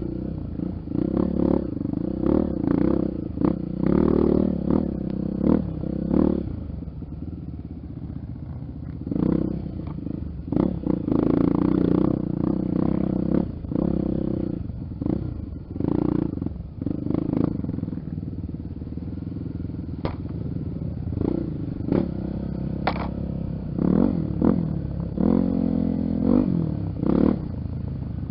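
Honda XR 250 Tornado single-cylinder four-stroke trail motorcycle engine running, the throttle opening and closing over and over, with frequent sharp knocks and rattles throughout.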